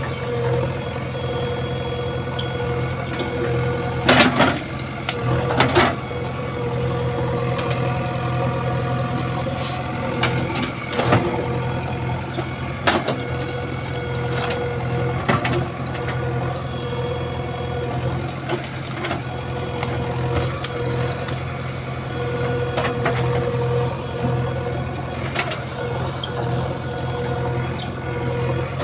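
JCB 3DX backhoe loader's diesel engine running steadily, with a sharp clank now and then, the loudest about four and six seconds in.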